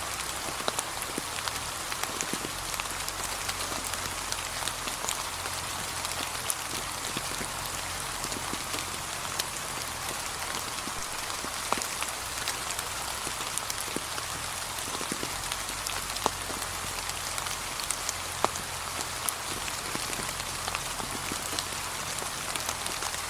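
Gentle steady rain, a soft even hiss with many scattered drops ticking sharply on fallen autumn leaves.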